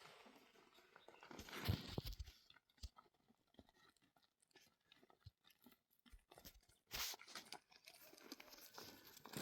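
Faint, irregular crunching and rustling, with a louder burst about two seconds in and another about seven seconds in.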